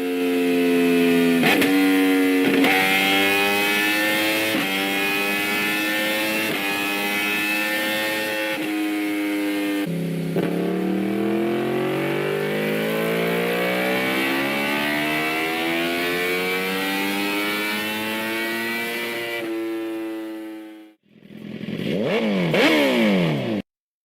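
Motorcycle engine accelerating through the gears: the pitch climbs, drops at each shift and climbs again, then makes one long rising pull from about ten seconds in. After a brief break near the end there is a short burst of revving with the pitch sweeping down and up, then it cuts off abruptly.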